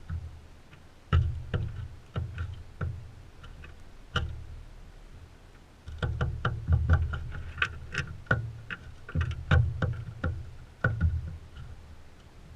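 Crimson rosellas feeding right beside the microphone: irregular sharp taps and clicks, each with a dull knock, as they peck and shift about on a seed feeder, busiest in the second half.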